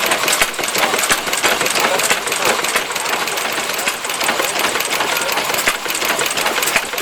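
Small stationary engine running with a rapid clatter.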